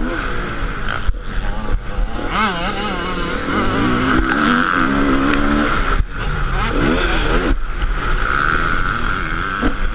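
Motocross motorcycle engine revving, its pitch rising and falling several times with a steadier held rev in the middle.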